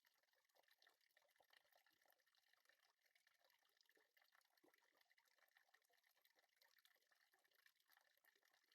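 Near silence, with only a faint, even crackle.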